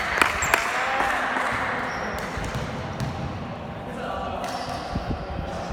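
Basketball bouncing on a hard court during play, with a few sharp bounces in the first second and more near the end, over a steady background of players' voices and movement.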